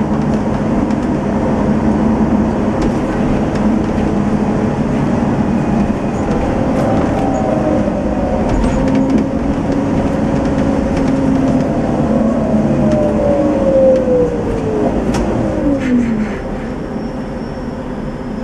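Diesel engine of a Setra S 431 DT-L double-decker coach, heard from on board while running under way. About three-quarters of the way in, the engine note falls steeply as the revs drop, with a few clicks, and the running sound then quietens.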